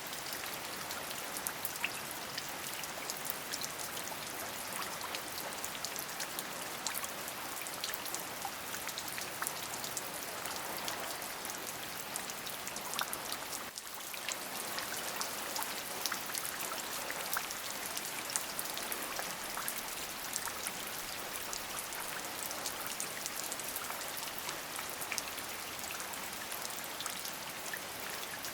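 Steady rain, an even hiss dotted with the ticks of individual drops, dipping briefly about halfway through.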